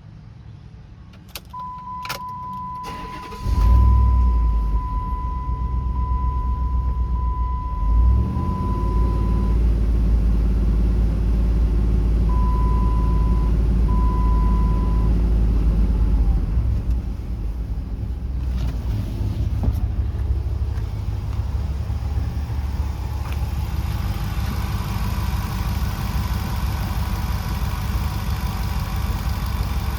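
A 2005 Dodge Durango's 4.7-litre V8 cranks briefly and catches about three and a half seconds in, then runs on at idle. It is revved once briefly about eight seconds in and settles to a lower idle about sixteen seconds in. A steady electronic tone sounds through the first several seconds and then beeps twice.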